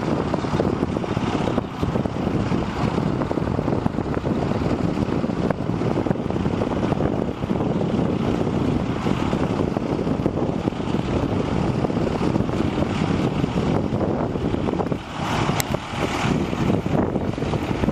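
Diesel engine of a 1997 International 2674 crane truck running steadily, with wind noise on the microphone.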